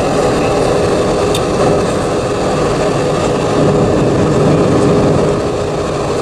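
Steady in-flight cabin noise of an Airbus A320-232 from a seat over the wing: the roar of its IAE V2500 engines and the airflow, with a steady hum running through it.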